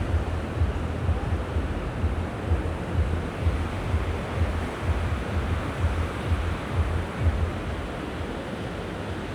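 Sea waves washing onto the shore, with wind buffeting the microphone in low, gusty rumbles that ease off about three-quarters of the way through.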